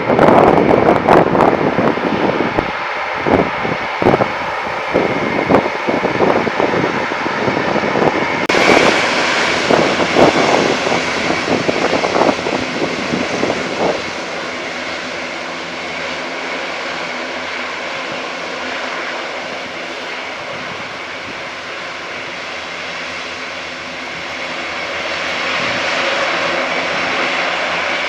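Turboprop engines of a military transport aircraft running: a steady whine with several held tones underneath, growing louder near the end. For the first fourteen seconds or so, uneven buffeting noise lies over it.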